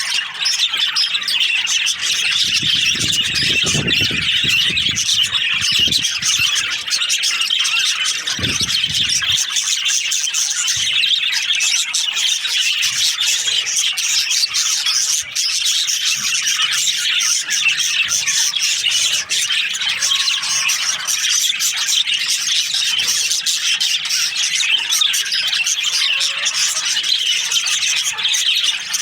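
A flock of budgerigars chattering and squawking, a dense, continuous mix of many short chirps and warbles. A few low thumps sound about three to four seconds in and again about eight seconds in.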